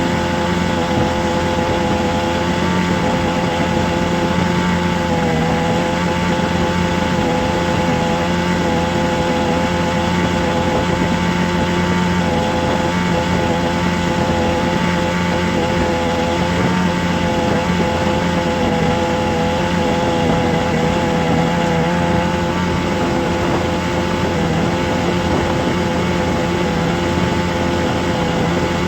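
A steady motor drone whose pitch wavers slightly, running without a break.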